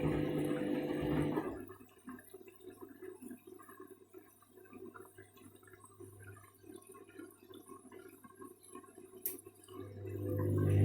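Candy washing machine on its rinse, drum tumbling then pausing. The motor's steady hum stops about a second and a half in, leaving faint water sloshing and dripping in the drum. A single click comes near the end, then the motor hum starts up again.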